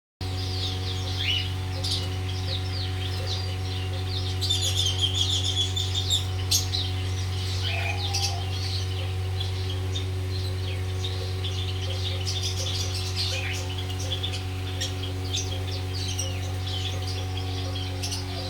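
Many small cage birds chirping and chattering at once, busiest a few seconds in, over a steady low hum.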